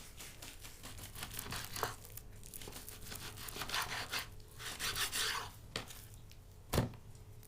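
Knife cutting raw bone-in meat: irregular rasping, scraping strokes, with a few clicks and one sharp knock near the end.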